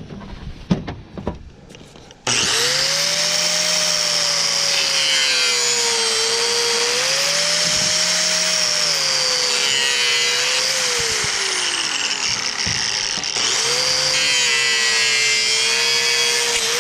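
A handheld power saw cutting through copper and metal. Its motor whine sags as the blade bites and recovers, winds down about twelve seconds in, and starts up again a second later. It opens with a couple of seconds of small clinks as the piece is handled.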